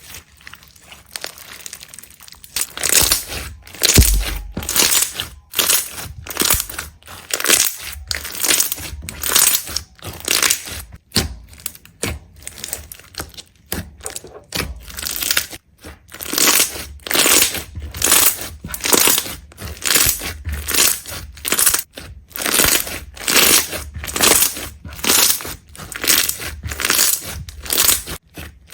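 Rhythmic crunching and crinkling, about two sharp strokes a second, starting a couple of seconds in after quieter crackling.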